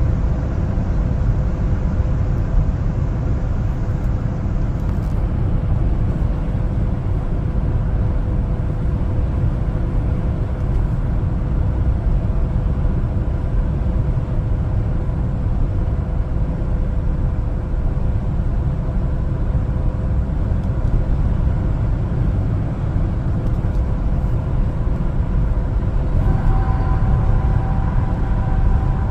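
1-ton LPG cargo truck driving on the road: a steady low rumble of engine and road noise with a faint constant hum, and a higher whine that joins near the end.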